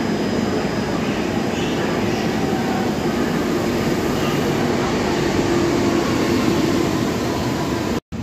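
Electric multiple unit pulling into the platform and running past close by: a steady, loud rolling rumble with a low hum running under it. The sound cuts off abruptly near the end.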